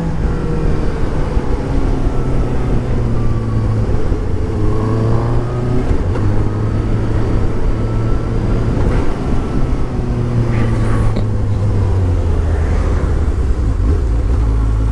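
Suzuki GSX-S750's inline-four engine running steadily under way, rising in pitch as it pulls harder about five seconds in.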